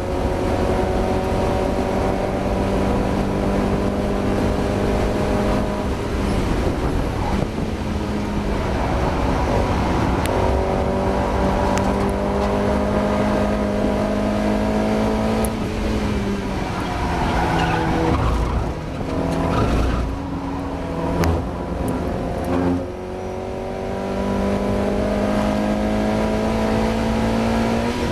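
Mazda MX-5 race car's four-cylinder engine under hard acceleration, its note climbing slowly and steadily for long stretches. About two-thirds of the way through it falls away into an uneven patch with a few sharp pops as the revs drop, then climbs steadily again. The engine is suffering a misfire.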